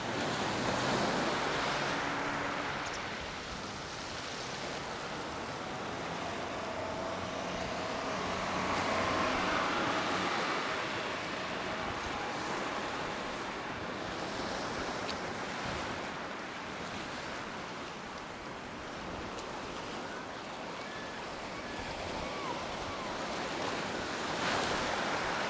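Surf breaking on a beach: a steady wash of wave noise that swells and ebbs every several seconds.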